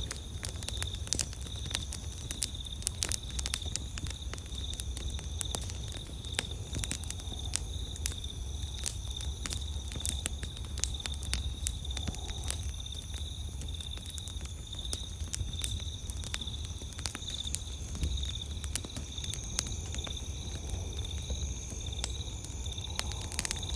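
Wood campfire crackling, with frequent sharp pops and snaps throughout. Insects trill steadily at a high pitch in the background, and a low rumble runs underneath.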